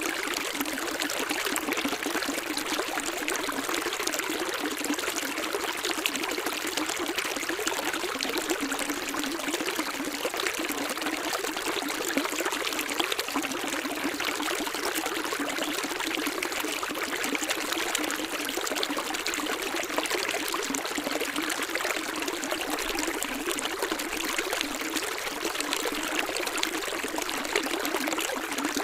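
Running water trickling and splashing steadily, light and bright with no deep rumble.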